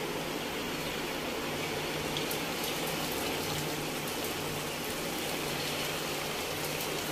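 Marinated chicken cubes, coated in egg and cornflour, frying in hot oil in a pan: a steady sizzle with faint scattered crackles as more pieces go in.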